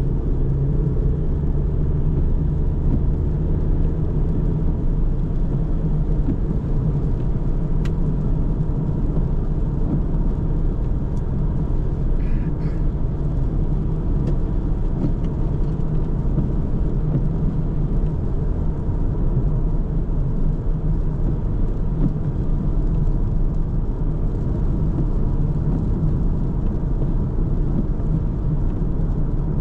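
A car driving at a steady pace, with a constant low rumble of engine and tyres on the road. A few faint clicks and a brief higher sound come near the middle.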